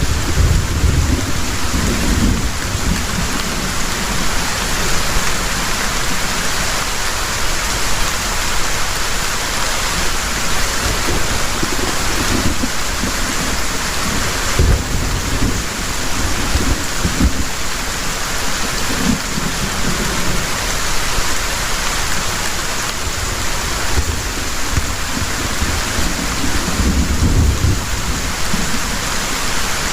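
Heavy rain falling steadily, with low thunder rumbling and swelling now and then, strongest near the start, about halfway through and near the end.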